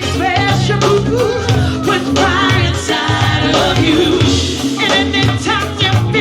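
Live go-go band playing, with a singer holding wavering, vibrato-laden notes over bass and a steady drum beat.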